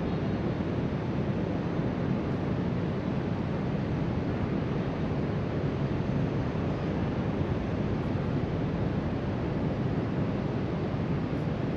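Ocean surf breaking along a sandy beach, mixed with wind rushing over the microphone: a steady, unbroken rushing noise.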